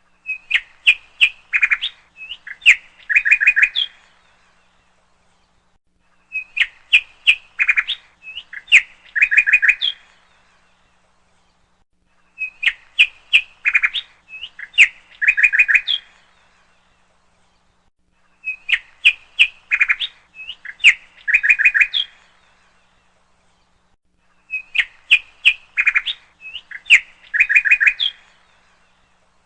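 Bird chirping: a phrase of quick high chirps ending in trills, repeated almost identically about every six seconds with complete silence between, as a looped recording.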